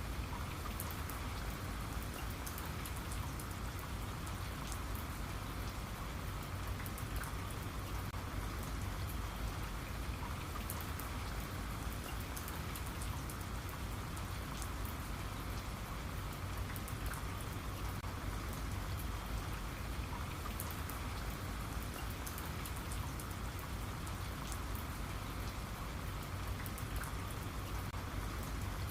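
Steady rain falling on a surface, a continuous patter of many small drop ticks over a low, even rumble.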